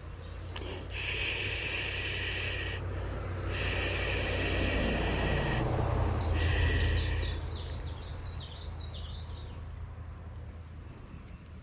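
A passing vehicle's low rumble swells to a peak about six seconds in, then fades. Over it come repeated high buzzes about two seconds long, starting and stopping sharply, and a bird's quick chirping song.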